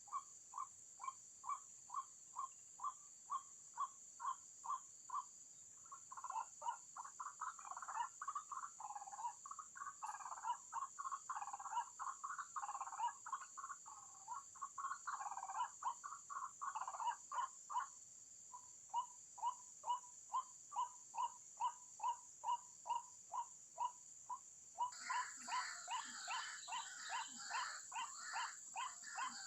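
White-breasted waterhen calling: a long run of short, repeated call notes, about two or three a second. In the middle they break into a louder, jumbled stretch of calling before the regular notes return. The calling grows louder and fuller near the end, over a steady high hiss.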